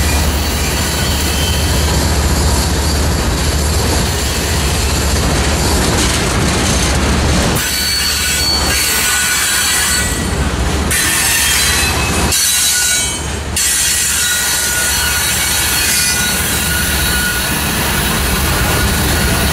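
Canadian Pacific freight train's cars rolling past, steel wheels clicking over rail joints with a high-pitched wheel squeal over a steady loud rumble.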